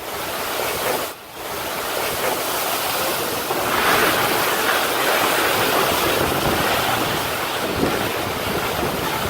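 Tornado winds blowing hard across the microphone: a steady rushing noise with a brief drop about a second in, growing louder about four seconds in.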